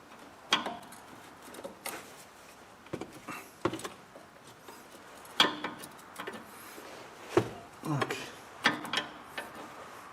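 Wrench clinking on the upper nut of a car's front stabilizer link as the nut is worked loose: a handful of separate metallic clicks and knocks at irregular intervals.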